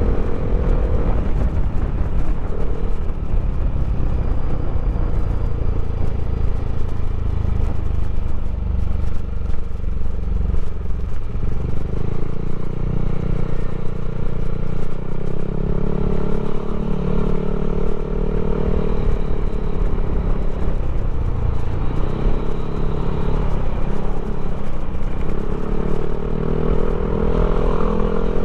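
Yamaha Aerox scooter engine, a single-cylinder four-stroke bored and stroked up to 200cc, running with its pitch rising and falling several times as the throttle is worked, over a steady low rumble that eases about halfway through.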